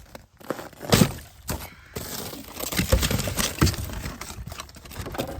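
Split firewood being handled and dropped into an outdoor wood boiler: a string of irregular wooden knocks and cracks, the loudest about a second in, over a rough rustling noise.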